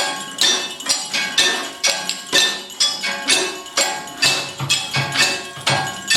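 Percussion music of struck metal, about two strikes a second. Each strike rings on with bright, bell-like overtones. A low bass note joins about two-thirds of the way through.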